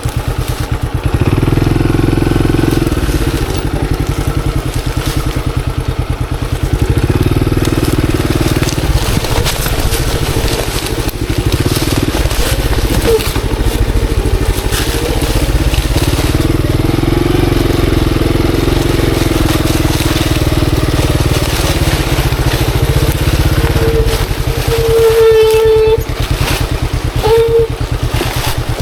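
Monarch Axis 125 motorcycle's 125 cc engine running under load on a trail, revving up and falling back again and again as the throttle is opened and closed. A short, high, steady whine sounds twice near the end.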